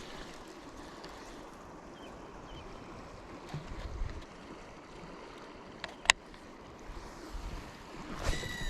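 Steady rush of flowing river water with some wind on the microphone, broken by a few sharp clicks; the loudest is about six seconds in. Near the end a click is followed by a brief metallic ring.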